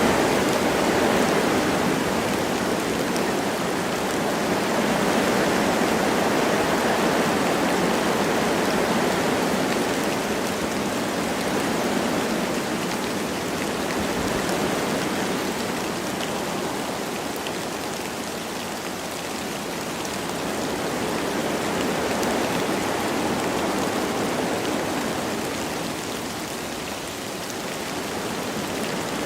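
Wind blowing through forest trees with light rain falling: a steady rushing noise that swells and eases in slow gusts.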